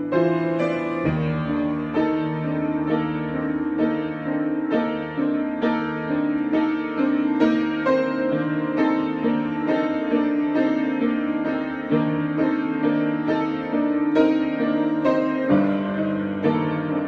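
Solo piano improvisation: a steady stream of struck notes, a few a second, over held bass notes that change about a second in and again near the end.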